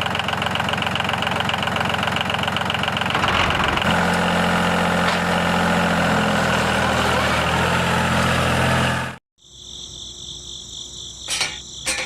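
Small engine of a mini tractor running with a rapid, rattling rhythm; about four seconds in its note settles and steadies. It cuts off abruptly near the end, giving way to quiet electronic music tones with a few clicks.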